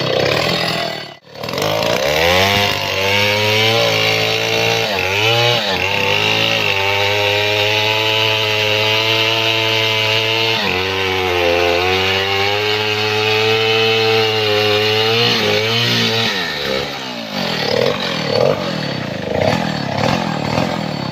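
Stihl 070 two-stroke chainsaw revving up and held at high revs while cutting into mahogany for about ten seconds, with a brief dip near the middle, then dropping back to lower, uneven running near the end.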